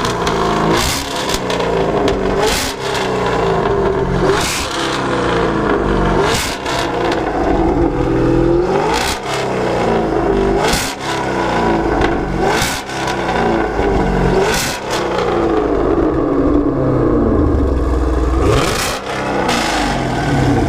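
Chevrolet Camaro V8 with an aggressive cam and loud aftermarket exhaust, revved hard again and again, about every two seconds, dropping back to a lumpy, choppy idle between blips. The engine is being revved for a decibel-meter reading.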